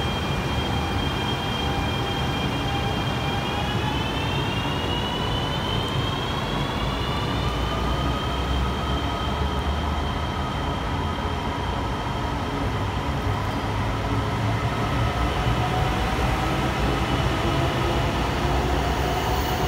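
CRH6A electric multiple unit pulling away and gathering speed, with a steady rumble of wheels on rails. A thin electric whine from the traction motors rises in pitch about three seconds in, then rises again near the end.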